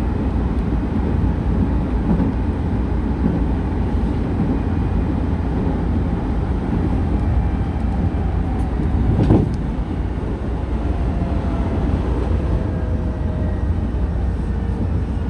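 Nankai electric train running on the track, heard from inside the rear car: a steady low rumble of wheels on rails with one sharp clack about nine seconds in. Near the end a faint motor whine falls in pitch as the train slows for its next stop.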